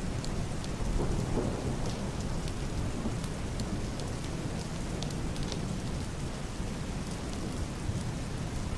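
Heavy rain drumming on a wooden roof and glass window, with individual drops ticking against it, over a deep, muffled rumble of distant thunder that swells about a second in.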